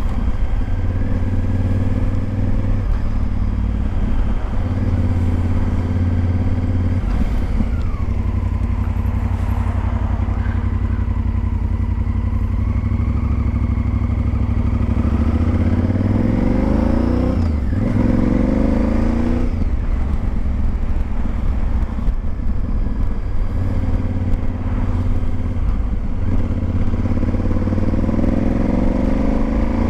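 Honda Varadero XL1000V's V-twin engine under way, running steadily, then accelerating with the revs climbing in rising sweeps, twice about halfway through and once more near the end.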